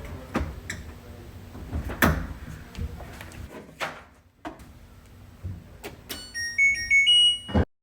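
Clicks and knocks of parts and connectors being handled, then about six seconds in an LG front-loading washer-dryer's control panel plays its short electronic power-on tune, a few beeps stepping upward: the machine powers on with its new main control board.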